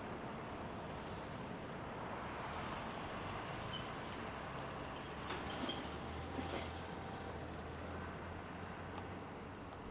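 Steady, distant jet noise of an Airbus A220-300's Pratt & Whitney geared turbofans as the airliner comes in to land, easing off slightly near the end.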